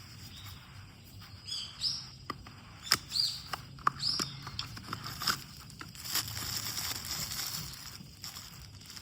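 A small bird chirping a few short, curving calls in the first half, among scattered sharp clicks and snaps, with a soft hissing rustle about six to eight seconds in.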